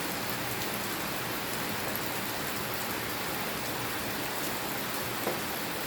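Steady rain falling, a constant hiss with a few faint drips ticking through it.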